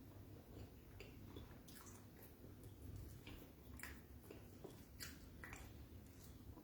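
Faint chewing of beans and fried plantain, with a scattering of small wet mouth clicks and smacks at irregular intervals.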